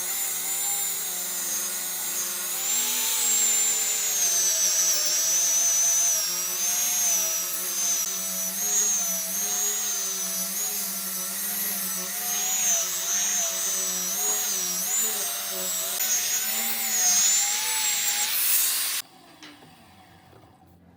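Electric power tool working wood, its motor whine wavering up and down in pitch as the load changes; it stops abruptly about two seconds before the end.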